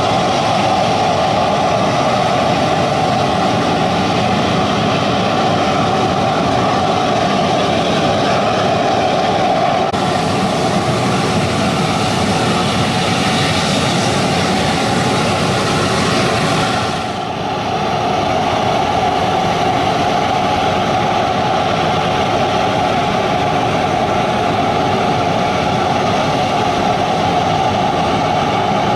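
Regional jet's turbofan engines running steadily, a loud even rush of engine noise. It grows brighter about ten seconds in, and dips briefly and turns duller about seventeen seconds in.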